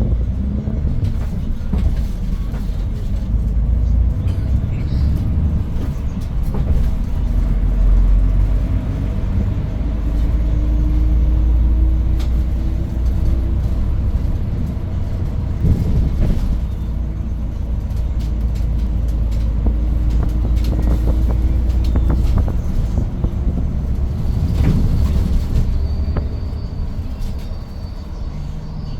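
Inside a Hyundai New Super Aerocity city bus under way: its C6AF Q290 compressed-natural-gas engine and drivetrain give a deep, steady rumble, with a whine that climbs slowly in pitch through the middle as the bus gathers speed. A few sharp rattles and knocks come through along the way.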